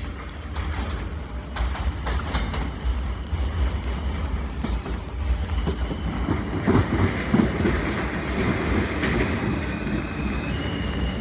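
New York City Subway L train running through the station, with a low rumble and wheels clattering over the rail joints. The noise builds about halfway through, and a high steady whine comes in and steps up in pitch near the end.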